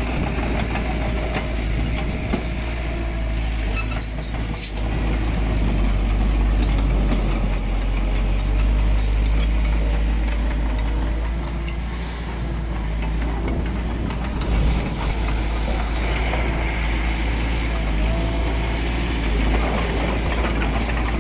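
Diesel engine of heavy earthmoving machinery running steadily under work, with brief sharp squeaks or clanks about four seconds in and again around fifteen seconds.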